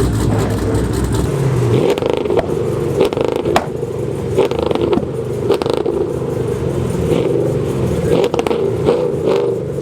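Car engine running loudly, with a deep rumble that fades about two seconds in and scattered sharp pops and clicks.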